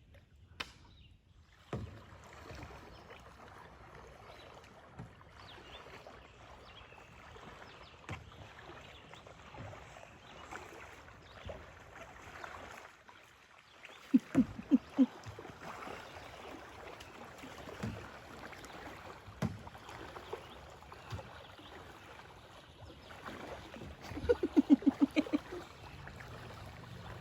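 Kayaking on a fast river current: steady water noise with scattered single knocks, and two bursts of quick, loud knocks, one about fourteen seconds in and a louder one near the end.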